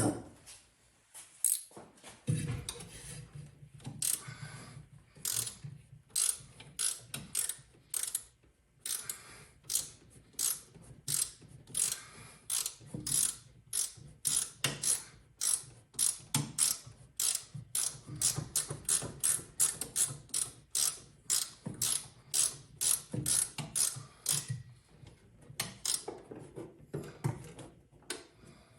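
Hand ratchet wrench clicking in quick, even back-and-forth strokes, a few clicks a second, as a bolt is turned on the engine.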